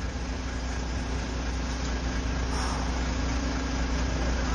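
FAW truck's diesel engine running steadily with a deep, low hum, growing slightly louder.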